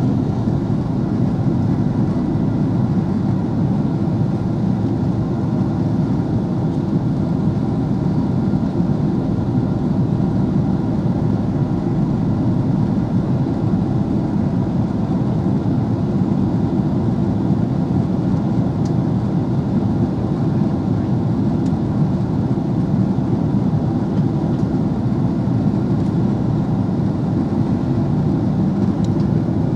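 Steady, loud cabin noise inside an Airbus A330-300 airliner in flight: an even, deep rumble of engines and rushing air with no distinct events.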